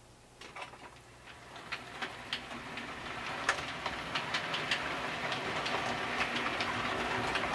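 OO gauge model diesel locomotive running along a model railway track, growing steadily louder as it comes closer. Its wheels make irregular clicks over the rail joints, over a faint steady hum.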